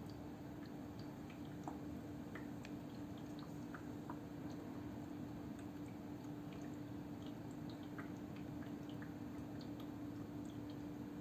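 Cool-mist humidifier running with the mist at maximum and the fan at its lowest setting: a quiet, steady hum with small irregular drips and gurgles of water.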